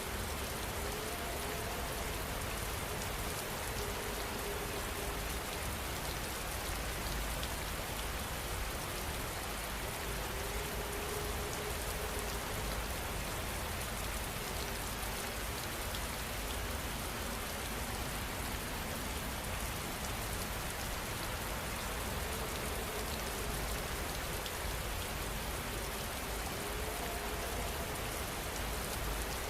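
Steady rain falling, an even hiss of raindrops that holds the same level throughout.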